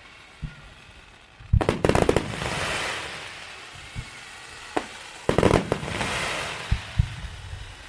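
Fireworks exploding: two quick volleys of sharp bangs, about a second and a half in and about five seconds in, each trailing off into a fading hiss, with single thuds in between.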